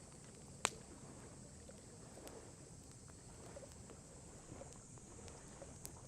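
Wood campfire crackling: one sharp loud pop a little over half a second in and another near the end, with a few small ticks over a low steady background noise.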